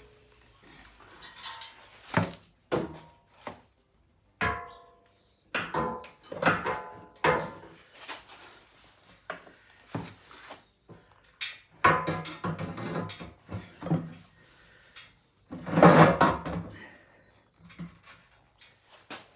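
Heavy metal car parts knocking and clanking as a differential and rear subframe are handled and bolted together: a string of irregular knocks, some ringing briefly, with the loudest, longest clatter about 16 seconds in.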